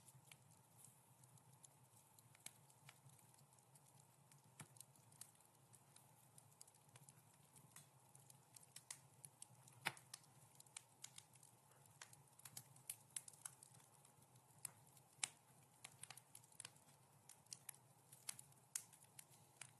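Wood fire crackling softly: irregular sharp pops and snaps, a few louder ones about ten and fifteen seconds in, over a faint steady hiss.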